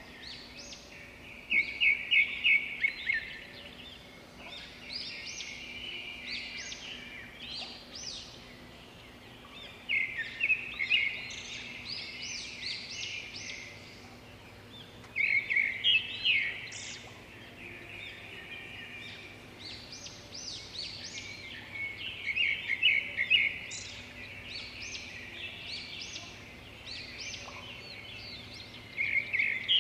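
Birds chirping: rapid trilled calls that swell into loud bursts about every six seconds, with quieter chirps in between and a faint steady hum beneath.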